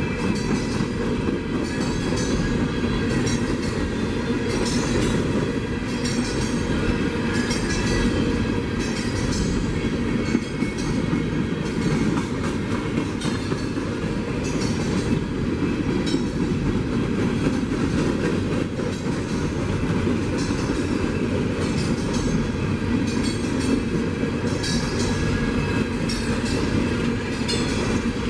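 Train passing steadily, its railcars' wheels rolling and clicking over the rail joints in a repeating rhythm, with a continuous low rumble.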